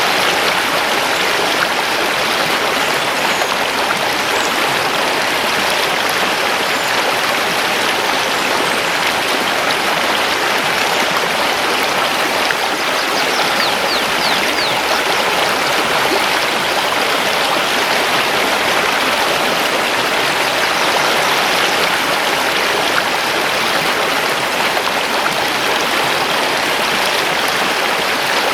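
Mountain river rushing steadily over stones. A few faint, high bird chirps come through near the middle.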